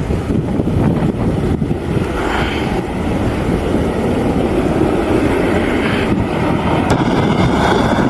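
Loud, steady roar of a jet airliner's engines close by, with a few faint surges over it.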